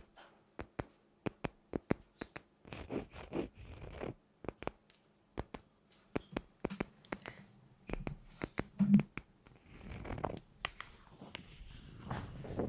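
A run of sharp, irregular taps and clicks with stretches of scratching between them, and one heavier thump about nine seconds in.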